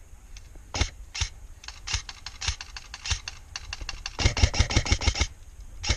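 Airsoft guns firing: scattered single shots as sharp clicks, then a rapid full-auto burst lasting about a second near the end.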